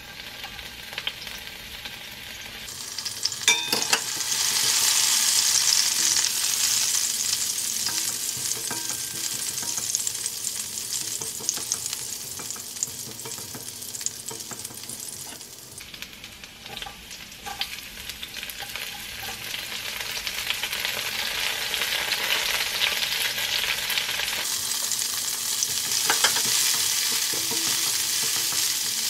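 Chopped garlic and onions sizzling in hot oil in a stone-coated wok, stirred and pushed about with a silicone slotted spoon. After a few knocks a few seconds in, the sizzle swells loudly, eases off about halfway through, and builds again near the end.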